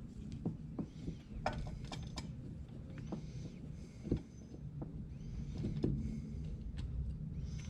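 Scattered light clicks, knocks and short scrapes of a screwdriver and small metal carburetor parts being handled and worked by hand, over a low steady hum.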